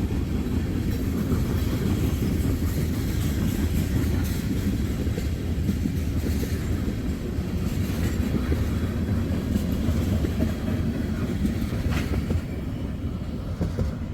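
A freight train of tank cars rolling past: a steady rumble of steel wheels on rail with scattered clicks at the rail joints, easing slightly near the end as the last cars go by.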